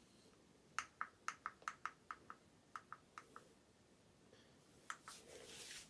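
A quick run of about eight light clicks or taps, a few more a second later, then a brief hiss near the end, all faint.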